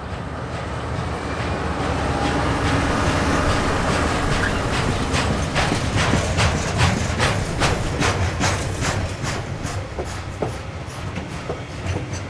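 A train passing close by: a low rumble builds over the first few seconds, then its wheels click rapidly and regularly over the rail joints, about four clicks a second, thinning out near the end.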